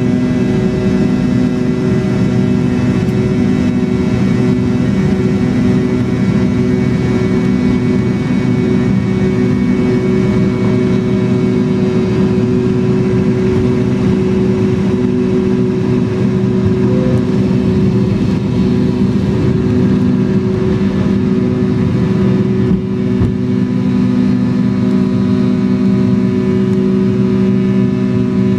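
Steady machinery hum of a McDonnell Douglas MD-83 airliner heard from inside the rear cabin: a constant drone with several fixed whining tones and a rushing noise underneath, unchanging in pitch.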